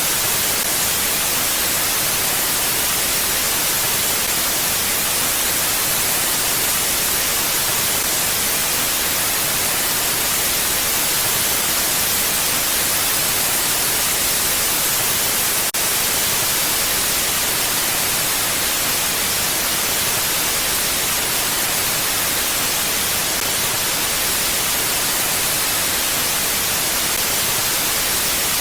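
Steady mountain wind ambience: an even, hiss-like rush with no gusts or swells. A faint single click comes about halfway through.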